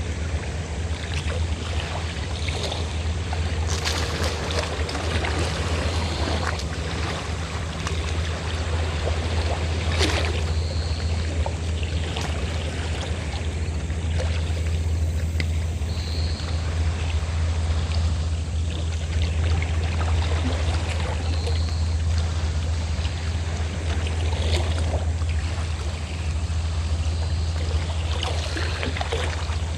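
A fishing boat's engine running with a steady low drone, under the sound of sea water splashing and lapping, with brief louder splashes now and then.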